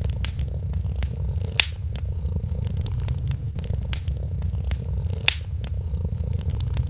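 A cat purring steadily, a continuous low rumble, with a wood fire crackling over it in scattered sharp pops, two of them louder: one about a second and a half in and one just past five seconds.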